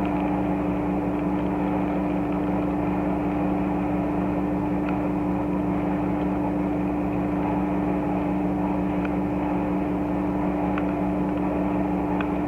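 A steady machine-like hum with a constant low drone, unchanged throughout, and a few faint light clicks from the plastic toy being handled.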